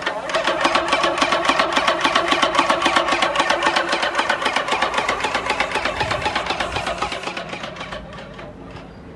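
Yokiji YKJ720 airless paint sprayer's electric-driven piston pump running under load, a fast, even mechanical pulsing of about eight beats a second over a steady motor hum. It starts suddenly and dies away near the end.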